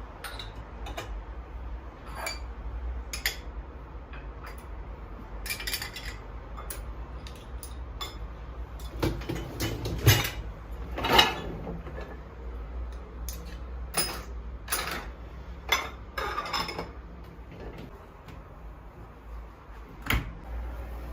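Dishes and cutlery clinking and clattering as they are handled, in scattered knocks, the loudest about ten and eleven seconds in, over a steady low hum.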